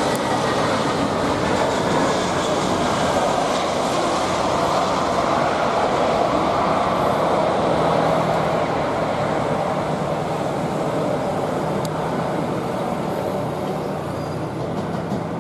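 Jet airliner's engines passing: a steady roar with a faint falling whine at the start, loudest about halfway through and slowly fading near the end.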